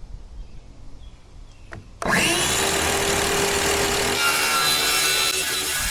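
Reciprocating saw (Sawzall) starting about two seconds in, its motor whine rising quickly and then holding steady as it cuts.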